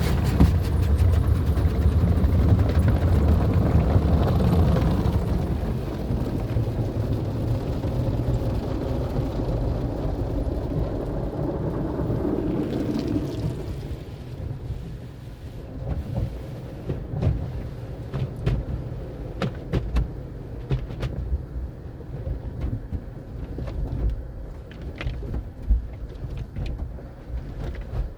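Automatic car wash tunnel running: water spray and machinery make a loud, steady rumble, which drops about halfway through to a quieter wash with irregular knocks and clatters from the equipment.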